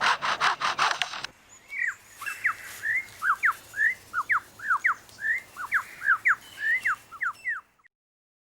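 Superb lyrebird singing: for the first second or so it mimics a chainsaw with rough, noisy pulses, then breaks into a quick run of sharp whistled notes, most sliding downward, about three a second. The song stops near the end.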